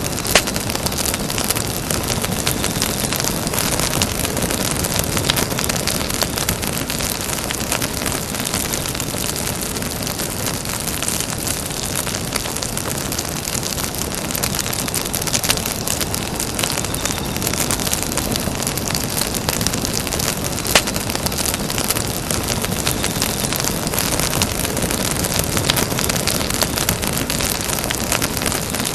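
Campfire burning: a steady rush of flame with dense, constant crackling of the wood. A couple of louder single pops stand out, one just after the start and one about two-thirds of the way through.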